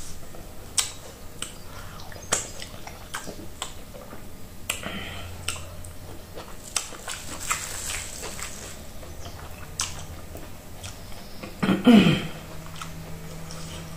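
Close-up eating sounds of a person eating oat fufu dipped in peanut butter soup by hand: wet mouth clicks and chewing sounds scattered irregularly. About twelve seconds in there is a brief falling vocal hum.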